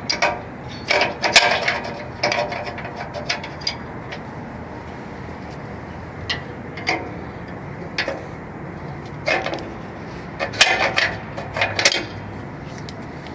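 Metal clanks and rattles of a motorcycle hydraulic lift's rack bars being rotated and the lock pins pushed back in, coming in scattered clusters of sharp knocks over a steady low hum.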